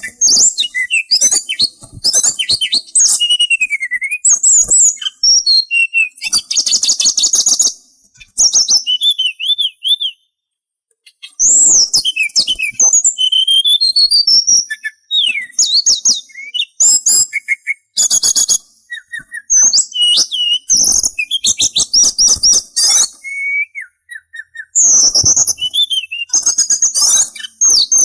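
Sulingan songbird singing a long, varied song of fast whistled phrases, sliding notes and rapid trills, with a couple of brief pauses.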